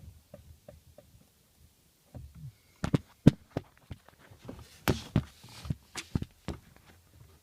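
Clutch pedal assembly of a Mazda 6 GH 2.5 clicking as the pedal is let up slowly: an irregular string of sharp clicks and soft knocks, loudest in the middle. It is a foreign noise heard only on slow release, which the owner asks about as a possible fault.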